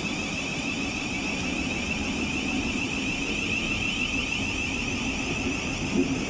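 Class 700 Thameslink electric trains pulling away: a steady high whine from the traction equipment over a low rumble.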